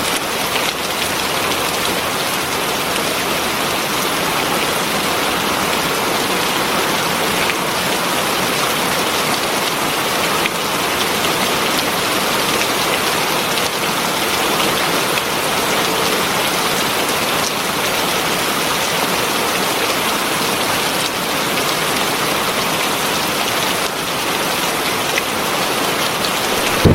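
Heavy rain falling steadily on a surface, a dense, even hiss of drops that does not rise or fall.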